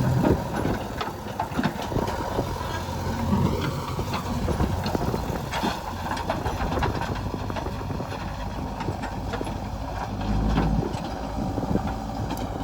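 A backhoe loader's diesel engine runs steadily, with scattered clanks and knocks. The engine swells louder briefly about ten seconds in.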